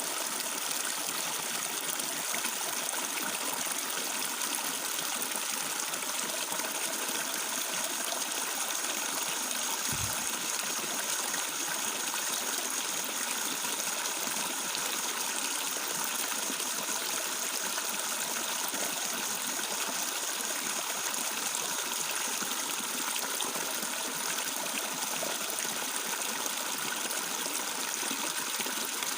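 Flowing water babbling and trickling steadily, like a small stream.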